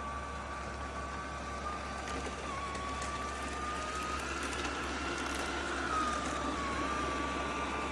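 BPMIO robot vacuum and mop running a cleaning pass: steady fan whirring with a high whine that wavers slightly in pitch.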